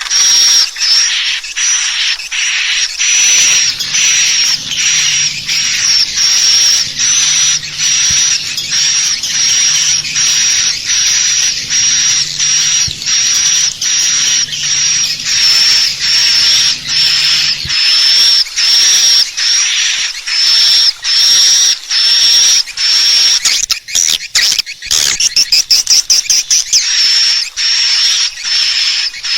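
Swiftlet calls, the lure sound played to draw swiftlets into a nest house: a steady, even train of short high chirps a little under two a second, with a quick run of rapid clicks about 24 seconds in.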